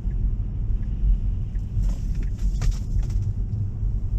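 Steady low road and tyre rumble of a Tesla electric car driving on a rain-wet road, heard from inside the cabin, with a brief hissing swish about two to three seconds in.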